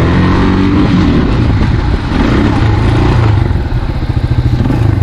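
Dirt bike engine running on throttle, then from about three and a half seconds in dropping to a slower, evenly pulsing low beat as the revs fall.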